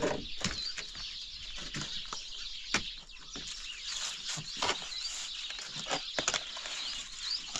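Birds chirping in short, scattered calls, mixed with irregular sharp clicks and taps.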